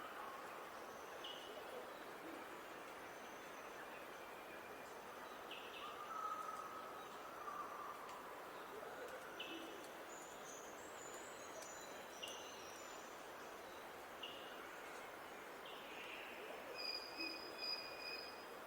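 Wild birds calling and singing over a steady outdoor hiss: a short call repeats every few seconds, with thin high notes and a brief chattering phrase midway. A clearer whistled phrase comes near the end.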